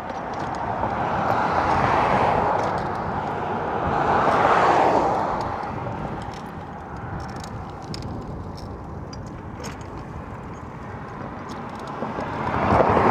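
Wind rushing over the microphone during a bicycle ride, swelling about two seconds in, again near five seconds and once more near the end, with faint ticks throughout.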